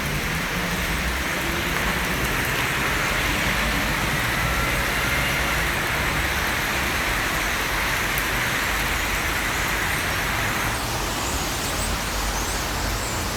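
Dense, continuous chattering of a large flock of birds packed into street trees, over a steady rumble of city traffic. The bird din thins out about eleven seconds in.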